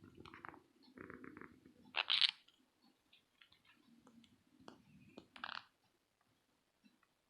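Green-cheeked conures making short, harsh squawky calls and a quick burst of clicky chatter, over soft crunchy, scratchy noises. The loudest call comes a little after two seconds in, another shortly after five seconds.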